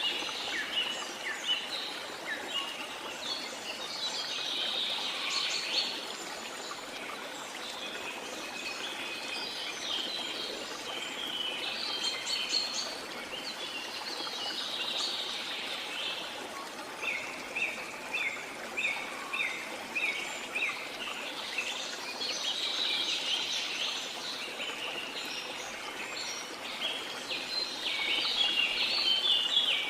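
Small songbirds chirping and singing over a steady wash of water. In the middle there is a run of short repeated notes, about two a second, and a busier burst of chirping near the end.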